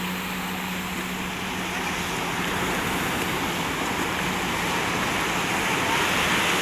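Steady rushing noise of sea surf, growing a little louder near the end.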